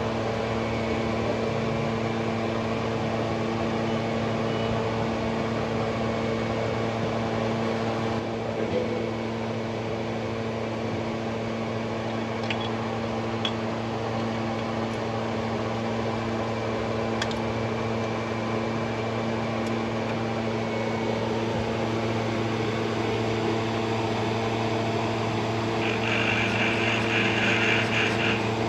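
Steady mechanical hum made of several even tones, running unchanged, with a higher hiss joining near the end.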